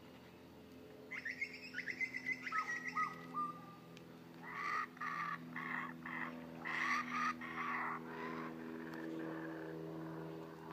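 Birds calling: a run of short sliding chirps, then a series of loud repeated calls, over a steady low hum.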